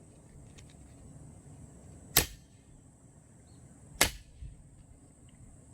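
Axe blade striking and splitting rain-damp firewood logs: two sharp chops about two seconds apart, with a weaker knock shortly after the second.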